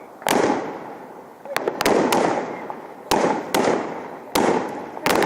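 Fireworks going off in a series of about eight sharp, loud bangs at irregular intervals, some in quick pairs. Each bang is followed by an echoing tail. The bangs are like gunshots.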